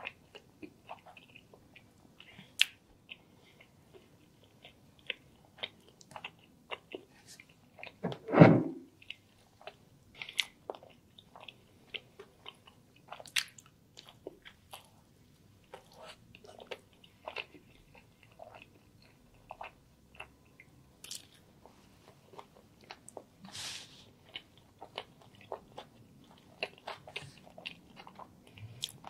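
Close-miked mouth sounds of eating chicken and a sandwich: sharp wet clicks and soft crunches of biting and chewing. One much louder sound comes about eight seconds in.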